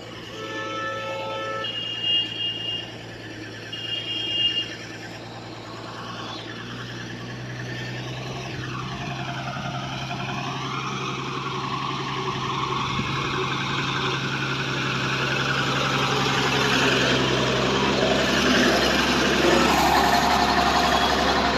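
Loaded truck engine running steadily and growing gradually louder. A short horn-like tone sounds at the start, followed by two brief high beeps a couple of seconds apart.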